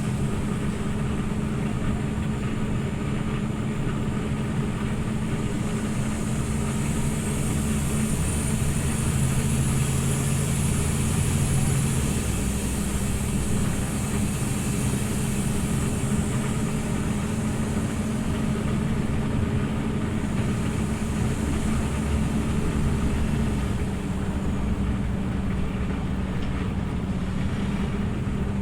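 Scania OmniLink CL94UB city bus running along, its engine humming steadily. About eight seconds in, a faint high whine rises for a few seconds.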